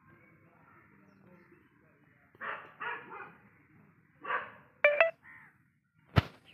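A dog barking a few short times, with one brief higher yelp about five seconds in, and a sharp click near the end.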